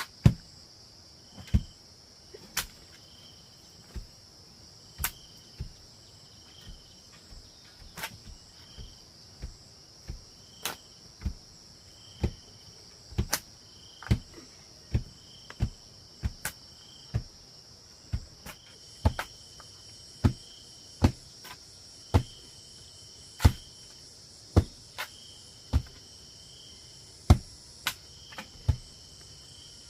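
Insects droning steadily, with short chirps repeating, over sharp knocks that come about once a second at uneven spacing. The knocks are the loudest sounds.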